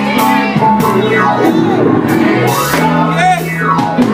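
Live gospel band music led by electric guitar, with bending, swooping melody lines over held bass notes that change every second or so.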